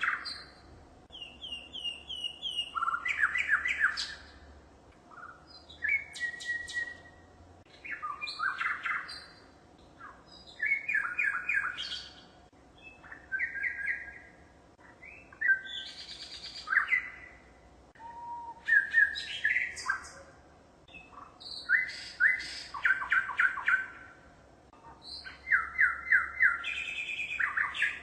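A bird singing in short phrases of quick repeated chirps and trills, a new phrase every two to three seconds, with brief pauses between them.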